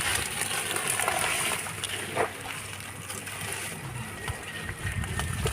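Water sloshing and splashing, with a few light knocks, as someone wades and gropes in shallow muddy river water.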